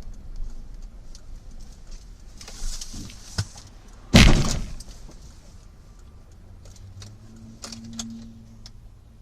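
Car collision heard from inside a car: a single loud crash about four seconds in, over the low rumble of the vehicle, with smaller clicks and knocks before and after it.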